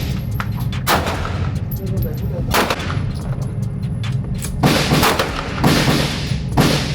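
Handgun shots, about five at uneven intervals, each a sharp crack with a reverberant tail, over a steady low rumble.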